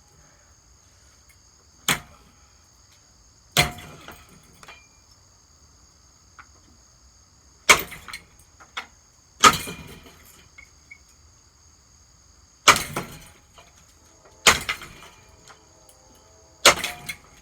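A hammer repeatedly smashing a Hampton Bay ceiling fan: seven hard blows about every two seconds, some followed by a brief clatter of loosened parts. A steady high insect trill runs underneath.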